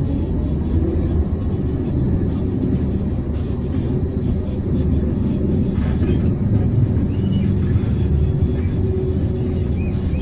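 Tram running along its rails, heard from on board: a steady low rumble of wheels and motor, with a couple of brief faint high squeaks about seven and nine and a half seconds in.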